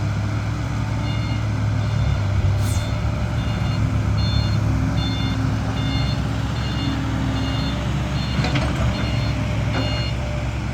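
A truck's reversing alarm beeping steadily, about one and a half beeps a second, over a diesel engine running at a steady pace.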